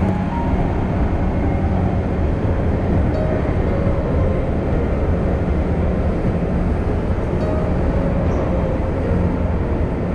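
Running noise of a train heard from inside the carriage: a steady rumble of wheels on rails with a low, even hum.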